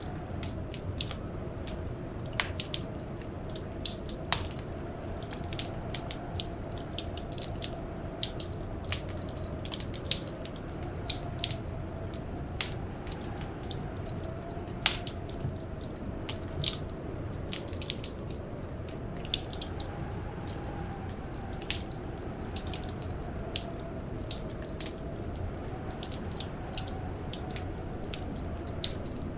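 Wood fire crackling, with sharp irregular pops over a steady low rumble, and a faint blizzard wind howling and wavering in pitch behind it.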